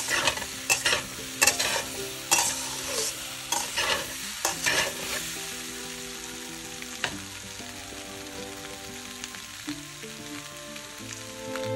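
A spoon stirs and scrapes against a stainless steel pot of chicken, onion and capsicum frying on low heat, with a sizzle under it. The scraping stops about five seconds in, leaving only a gentle sizzle.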